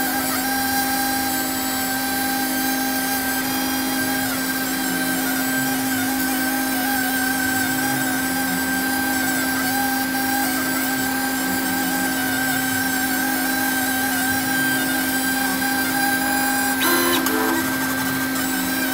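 CNC laser cutting machine running during a cut: a steady mechanical drone with a constant hum and whine over a rushing hiss. A brief, sharper sound stands out near the end.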